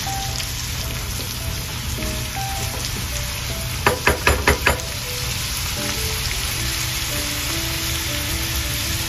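Chopped onion and peppers sizzling steadily in hot olive oil in a pot, frying down for a sofrito, with background music playing along. About four seconds in, a quick run of about five knocks.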